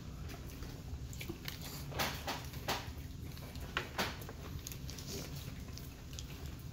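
A mouthful of Whopper burger being chewed close to the microphone: a handful of wet smacks, most of them between about two and four seconds in, over a low steady hum.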